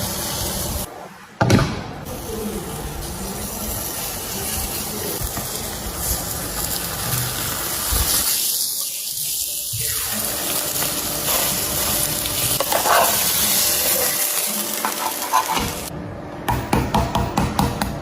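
Food frying in a pan, a steady sizzle with stirring, broken by a few sudden cuts. Near the end come quick, rhythmic scraping strokes.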